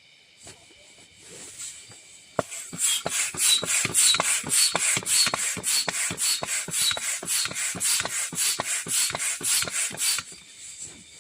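Rapid, rhythmic rasping strokes, about three or four a second, starting about two seconds in and stopping abruptly near the end.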